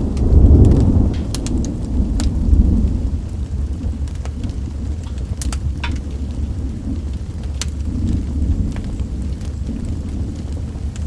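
Steady rain with a low rolling rumble of thunder that swells in the first second or so and then eases off. Scattered sharp crackles run through it.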